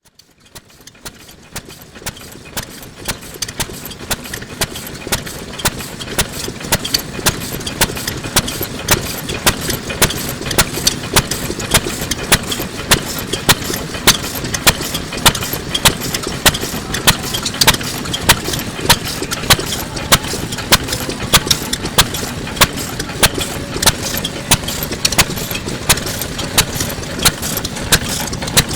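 Vintage Kubota Type F 2.5 hp single-cylinder stationary oil engine running steadily, with sharp, evenly spaced firing beats over its mechanical clatter. The sound fades in over the first few seconds.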